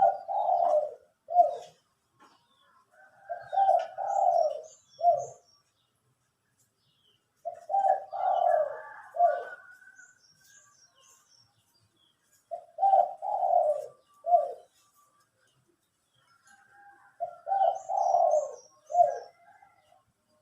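Spotted dove (dekukur) cooing: five phrases about four to five seconds apart, each a run of low coos ending in a separate short final note. Faint high chirps of small birds sound between them.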